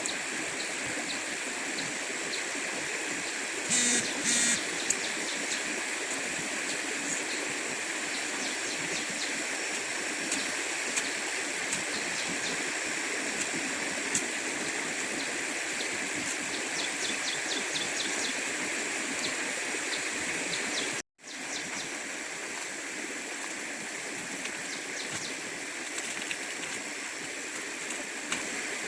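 Flowing stream water running steadily. Two short, louder sounds come about four seconds in, and the sound drops out for an instant about two-thirds of the way through.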